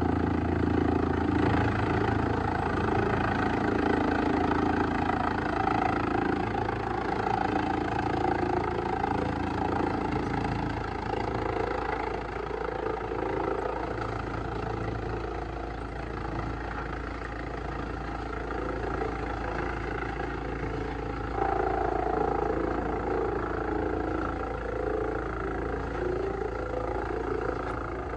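Large industrial wood shredder running steadily with a deep engine hum. Its low note shifts about ten seconds in and it grows louder again about twenty-one seconds in.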